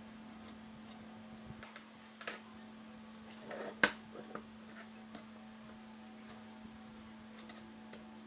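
Scattered light clicks and taps over a steady low hum, with a brief rustle leading into one sharper knock about four seconds in.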